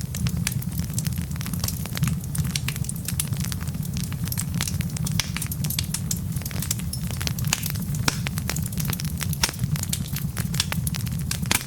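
Wood logs burning in a fire, crackling with many irregular sharp pops over a steady low rumble.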